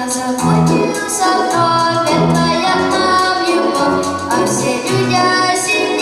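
Children singing a song with instrumental accompaniment over a steady, rhythmic bass line.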